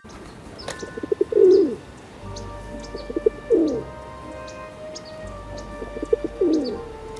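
Pigeons cooing: three low phrases, each a few quick pulses ending in a longer falling coo, with small birds chirping high in the background.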